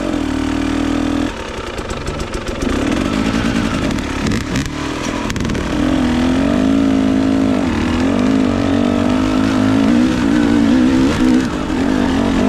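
Dirt bike engine running under a varying throttle, its pitch dropping about a second in and rising and falling again later. A few short knocks come about four to five seconds in.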